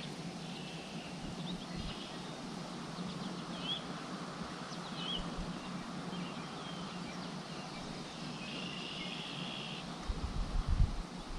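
Small birds giving short, high chirps and, near the end, a buzzy trill lasting about a second, over a steady outdoor hiss. Low rumbles of wind on the microphone come in near the end.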